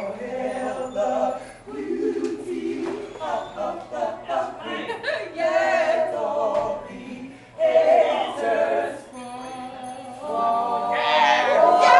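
A small group of voices singing a song together, growing louder near the end.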